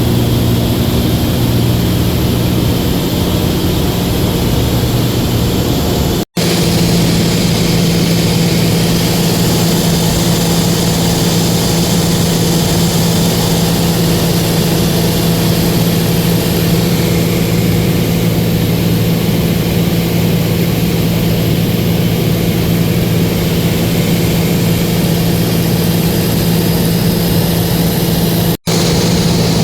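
Cessna light aircraft's engine and propeller running steadily in flight, heard from inside the cabin. Two brief drops in sound, about six seconds in and near the end.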